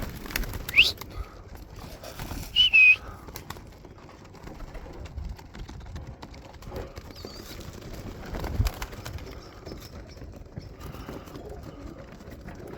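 Domestic pigeons cooing around the loft. Two short, high whistle-like sounds come early on: a quick rising one just under a second in, then a wavering one a couple of seconds later. A low thump comes near the two-thirds mark.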